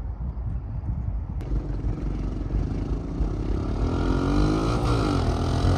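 Honda Big Red three-wheeler's engine accelerating hard at full throttle, its pitch climbing, with a brief drop and climb again near the end. A sharp click about a second and a half in.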